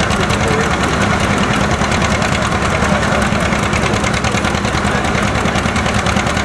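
1958 John Deere 720 LP-gas two-cylinder engine running with a steady, even, rapid exhaust beat.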